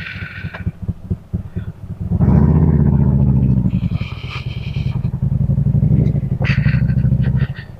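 Harley-Davidson V-twin motorcycle engine idling, with a loud rev about two seconds in that falls back to a steady idle.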